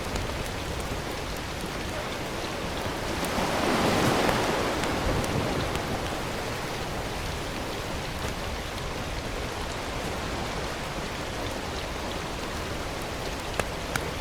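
Steady rain hiss that swells louder for a couple of seconds about four seconds in, with a few faint clicks.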